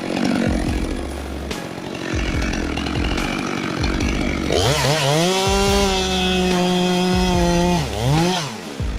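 Chainsaw running against wood, rough and uneven at first. About halfway through it revs up to a steady full-throttle pitch held for about three seconds, then drops off and revs up again near the end.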